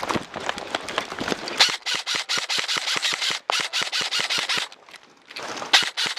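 Airsoft electric rifle (M4-style) firing on full auto: a rapid, even string of plastic BB shots lasting about three seconds, then a short pause and another quick burst near the end.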